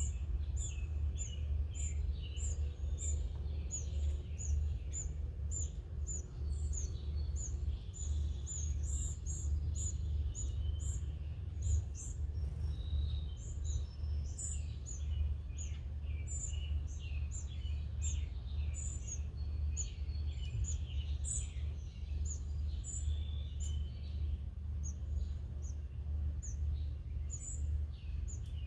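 Small wild birds chirping and calling, many short high chirps overlapping, some repeating about twice a second, over a steady low hum.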